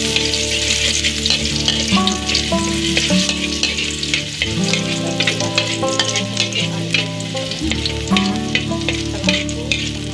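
Ginger strips and crushed garlic sizzling in hot oil in a wok, with many small pops, as a metal spatula stirs them.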